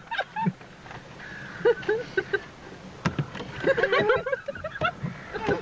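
Several seagulls calling in short squawks, in a cluster about a second and a half in and a denser one from about three and a half to five seconds in, with a couple of sharp clicks between.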